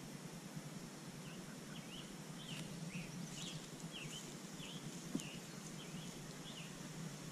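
A small bird chirping in a run of short, quick notes over a steady low background hum, with one sharp tap about five seconds in.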